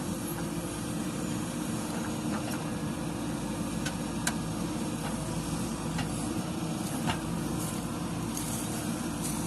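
JCB 3DX backhoe loader's diesel engine running steadily under working load, with scattered short clanks and knocks.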